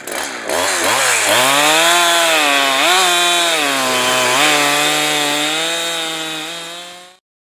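Farmertec G372XP two-stroke chainsaw catching and running, its speed wavering up and down, then dying suddenly near the end. It shuts off on its own, a sign of the finicky carburetor that won't hold its tune.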